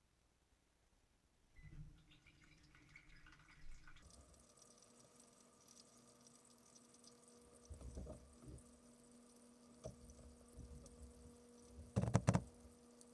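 GE dishwasher running, heard from inside the tub: water splashing and dripping, with a steady motor hum setting in about four seconds in. A few thuds come through, the loudest about twelve seconds in.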